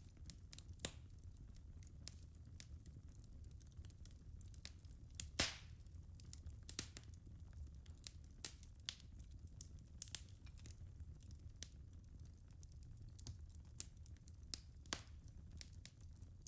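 Wood fire burning in a fireplace, crackling with irregular sharp pops over a low steady rumble of the flames; the loudest pop comes about five seconds in.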